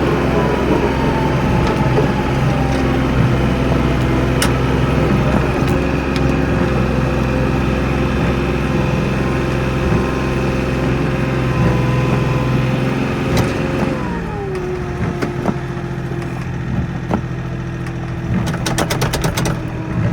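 Kioti NX4510 tractor's diesel engine running, its pitch sinking slowly over the first few seconds, then falling again about fourteen seconds in as the engine slows and gets a little quieter. A quick run of clicks near the end.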